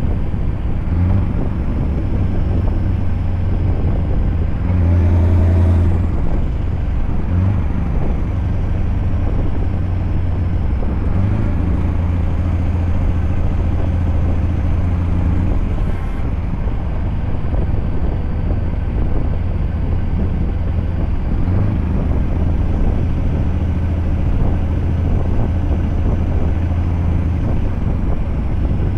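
Scania truck's engine running with a steady low drone and a faint high whine, swelling briefly louder about five seconds in.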